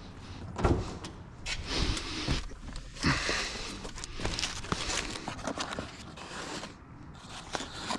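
Hands handling small plastic parts: irregular rustling and scraping with light clicks, after a knock about half a second in.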